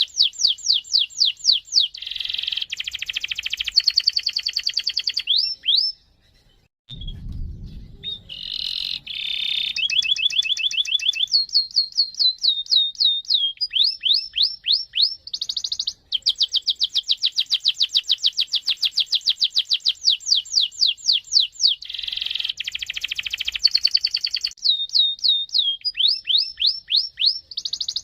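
Domestic canary singing a long rolling song of rapid trills and fast repeated chirps. There is a short break about six seconds in, with a brief low thump around seven seconds.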